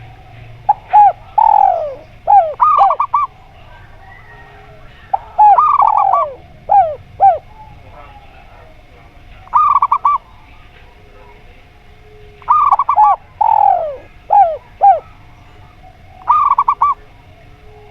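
Zebra doves and spotted doves cooing in repeated phrases, one every three to four seconds. Each phrase is a quick run of short coos, then a falling note and a few short clipped notes.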